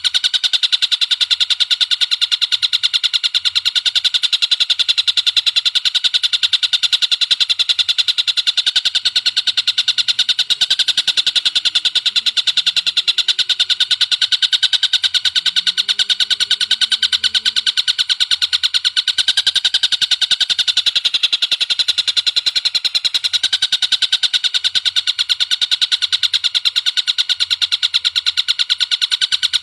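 Recorded bird call played as a continuous masteran loop: a fast, unbroken run of sharp, high notes repeating evenly.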